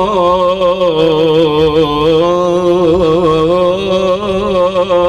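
Male voice chanting an Islamic devotional ibtihal, holding one long ornamented melisma whose pitch waves and turns throughout, over a steady low drone.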